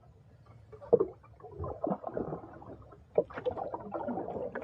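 Irregular water splashing and sloshing around a small boat, with a few sharp knocks.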